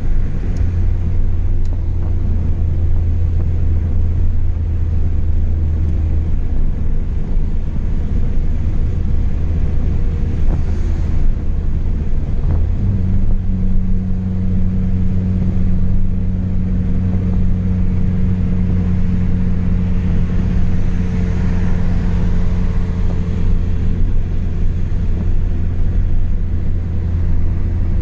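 Chevrolet Astra 2.0 four-cylinder engine with a straight-through exhaust (no mufflers), droning steadily while the car cruises. Its note shifts about halfway through and grows a stronger, slightly higher hum.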